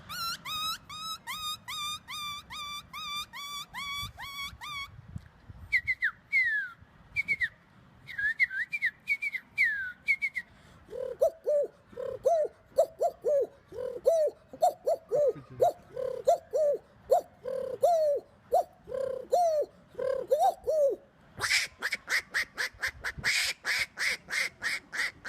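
A man imitating a string of bird calls. First come rapid high chirps, about four a second, for roughly five seconds, then a run of short falling whistles. After that, about ten seconds of lower repeated calls, roughly one and a half a second, and finally a fast high chirping run near the end.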